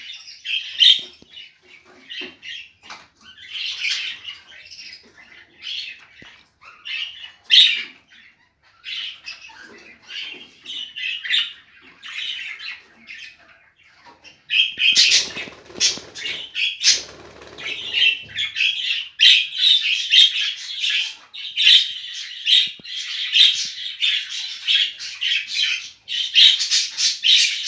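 Bird calls and squawks, short and high-pitched, coming in scattered bursts at first and then almost without pause through the second half. A brief rustling noise sounds about halfway through.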